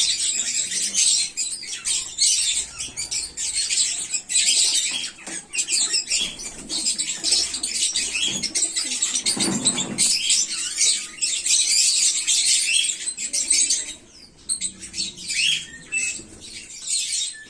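A colony of budgerigars chattering, many short high chirps and warbles overlapping without a break, with a brief low thump about halfway through.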